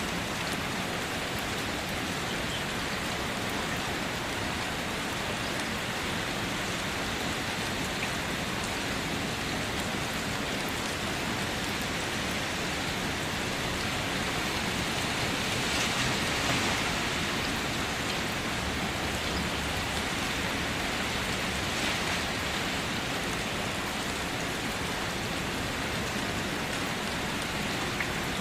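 Steady rain falling, a continuous hiss of many drops, swelling slightly in the middle.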